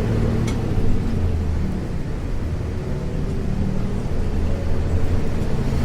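Isuzu U-LV224N bus's 6QB2 diesel engine heard from inside the cabin, a steady low drone while the bus is under way. A brief faint click comes about half a second in.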